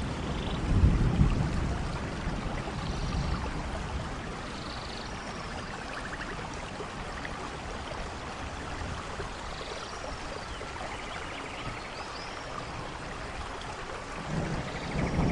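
Steady rainforest rain, with low rumbles of thunder swelling about a second in and again near the end. Faint high chirps and trills sound through the rain.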